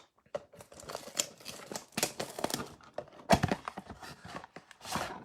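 Crinkling and tearing of a trading-card pack wrapper as it is handled and opened, in irregular crackles.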